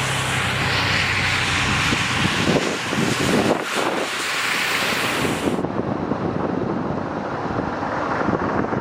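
Wind buffeting the microphone over a steady hiss, with a faint hum in the first couple of seconds; the hiss turns duller abruptly about five and a half seconds in.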